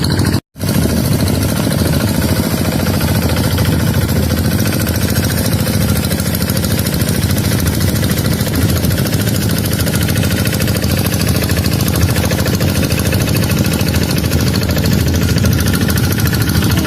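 Tractor engine running steadily, with a brief total gap about half a second in.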